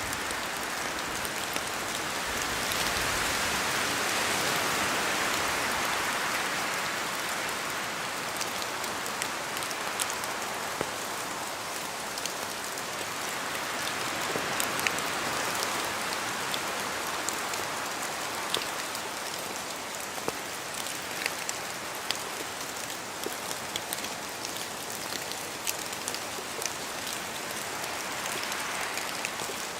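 Steady rain falling through forest trees, a continuous hiss with sharp drops hitting close by. The hiss swells for a few seconds, as with a gust of wind, then eases, and the drops come more often in the second half.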